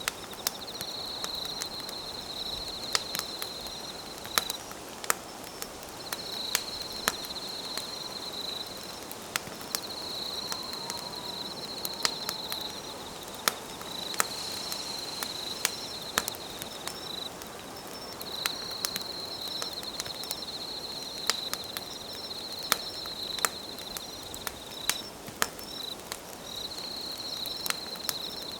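Wood campfire crackling, with sharp pops at irregular moments over a soft hiss of burning. Night insects trill steadily, high-pitched, in stretches of a few seconds with short breaks.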